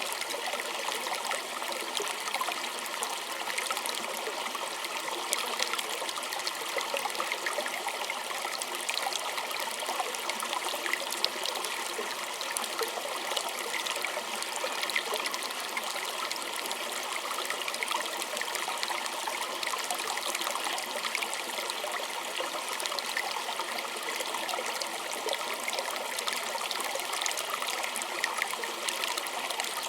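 Small stream flowing steadily, water trickling and splashing over stones in a continuous babble with many fine splashes.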